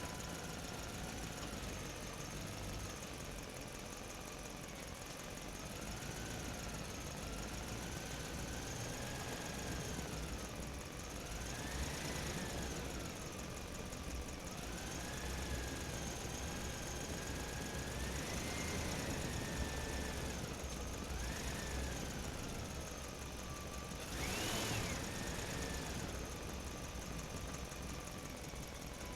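Small electric motor of a toy dump truck whining, its pitch rising and falling repeatedly as it speeds up and slows, with one brief sharper rise near the end.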